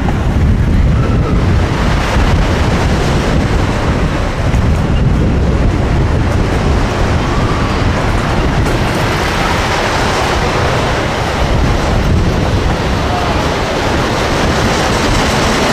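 Amusement-park train running steadily along its track, with a low rumble and wind buffeting the microphone.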